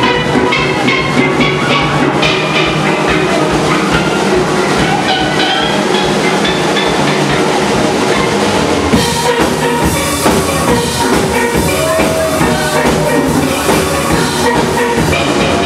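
Steel-drum band playing an upbeat tune: steel pans ringing out the melody over a drum kit and bass drum keeping a steady beat, the cymbals brighter from about halfway through.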